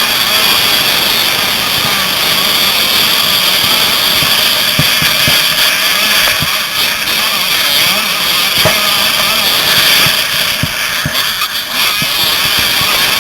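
Several motocross bike engines running and revving at once, their wavering pitches overlapping in a continuous race din, with occasional brief low thumps.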